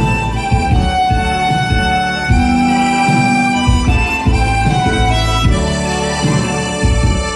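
Harmonica playing a slow, held melody over a musical accompaniment with a bass line and a steady beat.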